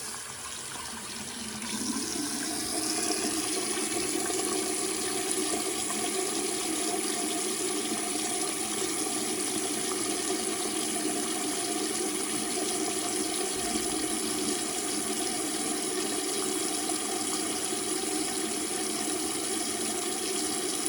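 Sink faucet running water into the basin, with the water draining down the freshly snaked, reassembled drain pipe to test that the clog is cleared. The flow builds over the first couple of seconds, then runs steadily.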